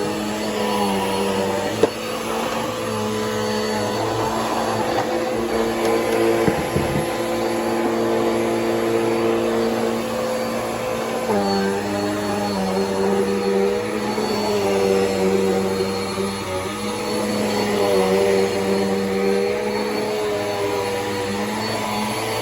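Bissell PowerForce Helix upright vacuum running continuously. The motor's steady whine shifts slightly in pitch now and then as the nozzle is worked over the furniture, with one sharp click about two seconds in.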